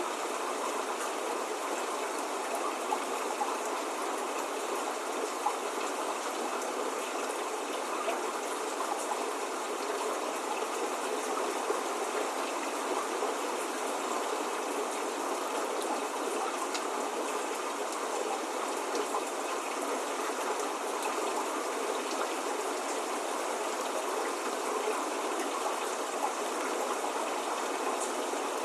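Steady spring rain falling, without thunder: an even hiss with scattered small drop ticks.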